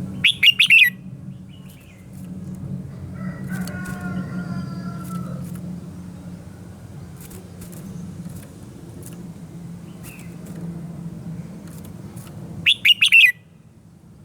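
Red-whiskered bulbul singing two short bursts of quick, loud chirping notes, one right at the start and one near the end. A steady low rumble and scattered short clicks run between them.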